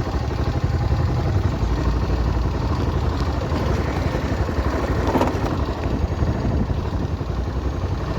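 Motorcycle engine running steadily, with a brief louder rattle about five seconds in.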